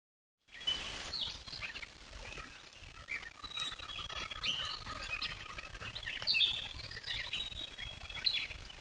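Several birds chirping and whistling in many short, overlapping calls.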